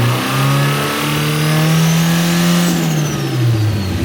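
Nissan SR20DET turbocharged four-cylinder revved up, held high for about two seconds, then dropped back toward idle, with a high whistle that climbs with the revs and slides down after. It pulls through without breaking up, the misfire between 3 and 4 thousand rpm now cured.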